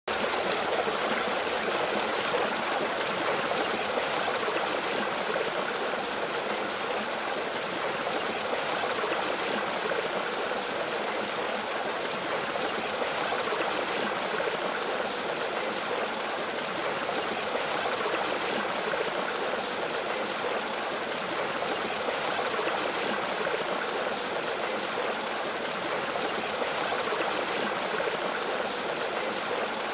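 Mountain stream flowing over rocks with a small waterfall: steady rushing and splashing water.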